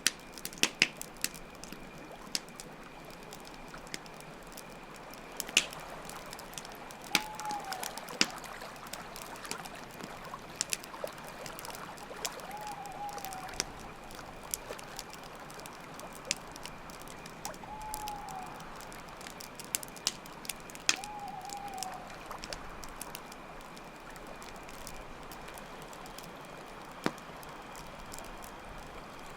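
Layered campfire ambience: a wood fire crackling with frequent sharp pops, over steady running water and a constant high chirring of crickets. A short falling note sounds four times, about every five seconds, in the first part.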